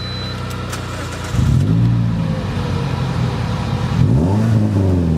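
Toyota Corolla's engine and exhaust running at a low steady hum, then revving up about a second and a half in and again near the end, the pitch rising and falling each time.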